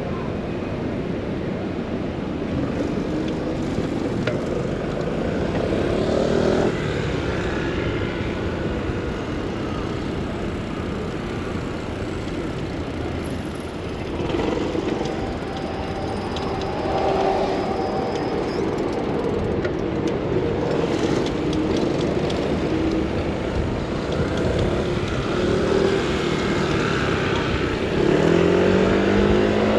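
City street traffic heard from a bicycle: a steady rush of passing cars and other vehicle engines. Near the end a vehicle accelerates with a rising engine note.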